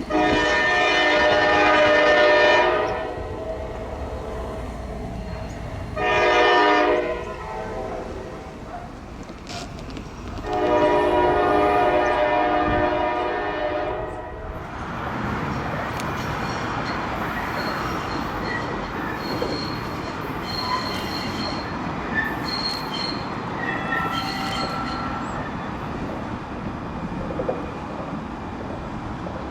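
Freight diesel locomotive horn sounding three blasts, long, short, long, each a multi-note chord. About halfway through, a light rail train rolls by with a steady rumble and intermittent high-pitched wheel squeal.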